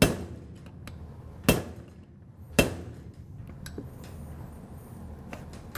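Hammer striking a metal pin, tapping the shaft pin into the adapter body: three sharp metallic blows, about a second apart, followed by a few faint clicks.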